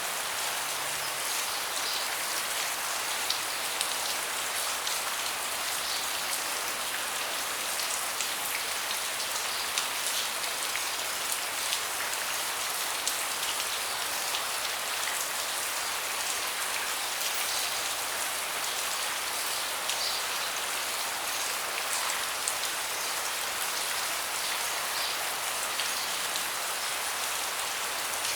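Steady rain falling on a deck: a dense, even hiss with many individual drops tapping sharply through it.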